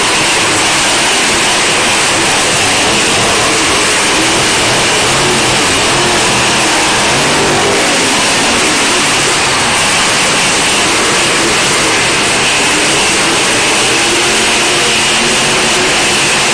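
Monster truck engines running and revving, loud and continuous, with the pitch rising and falling.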